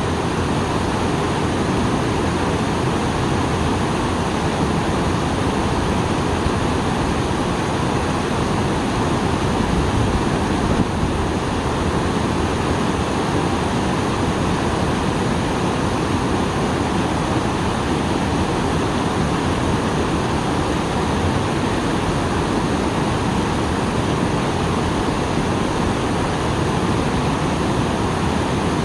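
Small waterfall pouring steadily after rain, its water falling in a dense, even rush with no breaks.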